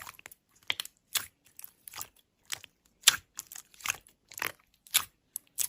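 Slime being pressed and poked by hand, giving a run of short, crisp crunchy clicks and pops at about two a second.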